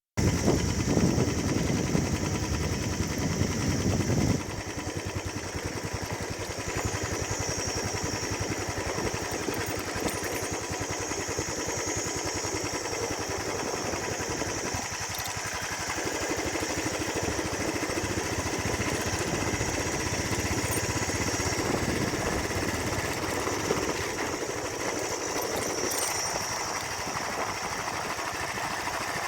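Royal Enfield Bullet 350 ES single-cylinder four-stroke engine running through its original stock silencer with a steady, even exhaust beat. It is louder for the first four seconds or so, then drops a little and stays steady.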